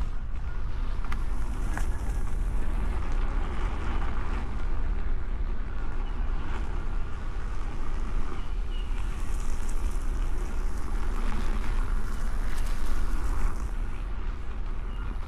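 Wind buffeting the microphone of an Insta360 X5 camera riding on an electric unicycle: a steady low rumble with a rushing hiss over it.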